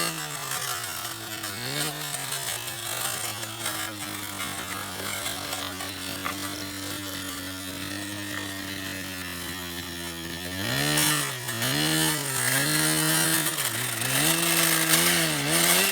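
Small model engine of an RC model running at a steady pitch, then from about two-thirds of the way in getting louder and revving up and down repeatedly.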